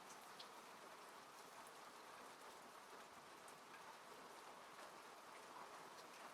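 Quiet, steady rain falling on a car, heard from inside the cabin, with scattered drops ticking through the even patter.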